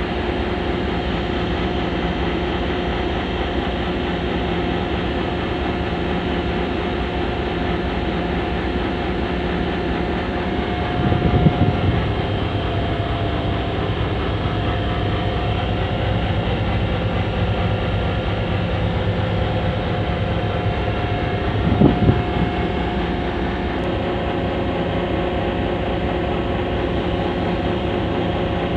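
HGMU-30 diesel-electric locomotive running steadily, with a steady whine over the engine noise. Two short louder bursts come about 11 and 22 seconds in.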